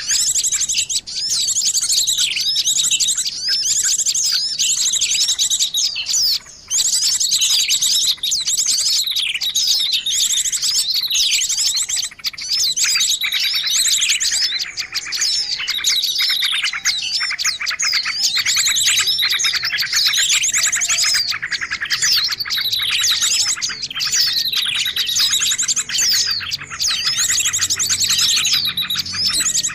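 A dense, continuous chorus of many small songbirds' calls: overlapping high chirps and rapid buzzy trills, played as a lure recording for attracting and trapping small birds.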